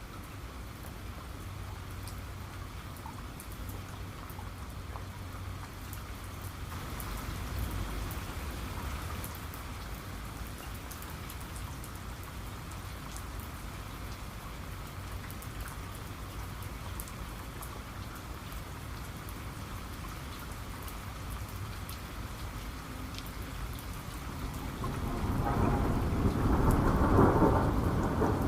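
Steady rain with scattered drop ticks over a low rumble of thunder. The thunder swells about a quarter of the way in, and a louder thunder peal builds near the end.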